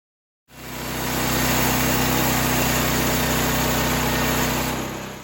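Sawmill engine running at a steady speed, fading in and fading out.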